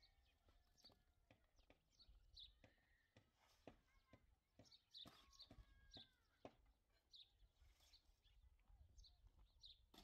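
Faint outdoor ambience: small birds chirping, high and short, one or two a second, with a few soft knocks in between.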